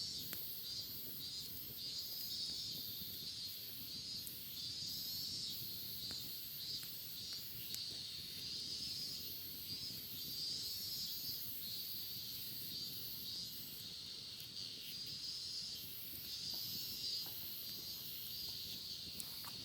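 Cicadas singing: a shrill chorus that swells and fades, over a higher insect trill pulsing about twice a second.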